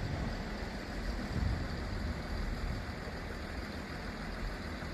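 Class 158 diesel multiple unit arriving, its diesel engine giving a steady low rumble.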